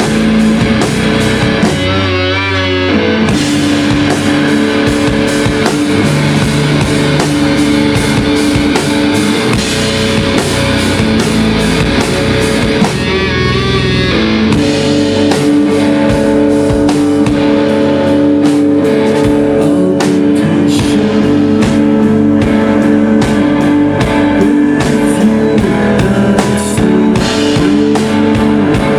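Live rock band playing loud, with guitars and a drum kit keeping a steady beat; the band thins out briefly twice, about two seconds in and again around the middle, leaving wavering guitar notes.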